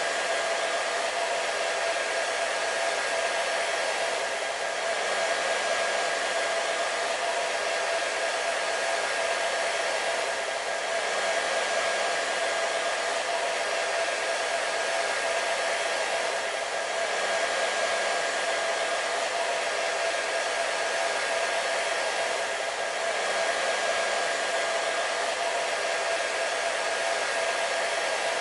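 Hair dryer running continuously: a steady rush of blown air with a constant motor whine through it, swelling slightly about every six seconds.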